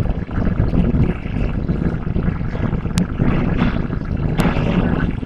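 Cabin noise of a hybrid electric train running on the track: a steady low rumble of wheels on rail and motor, with two sharp clicks about three seconds in and again a second and a half later.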